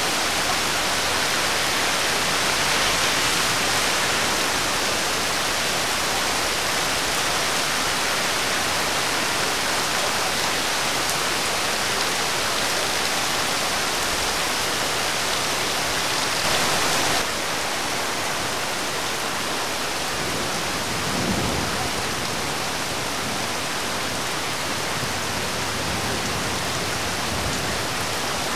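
Heavy rain pouring down, a dense, steady hiss that eases slightly a little over halfway through.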